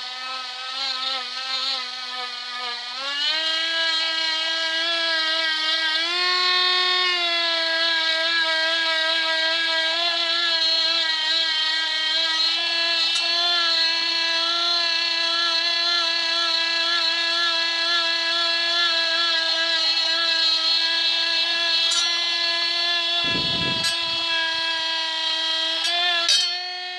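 Parkside cordless multi-grinder spinning a polishing disc against silverware: a steady high motor whine whose pitch steps up twice in the first seven seconds, then holds. A brief low thump comes a few seconds before the end.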